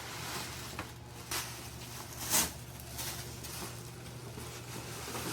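Gift wrapping paper rustling and tearing in a few short bursts as a present is unwrapped, the loudest about two and a half seconds in.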